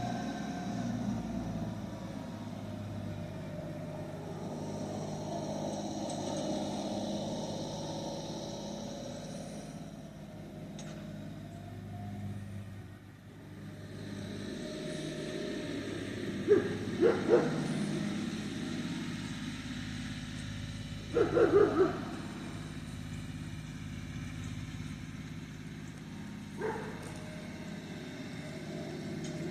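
Tractor engine running steadily. Short loud sounds break in a little past halfway, again a few seconds later and once more near the end.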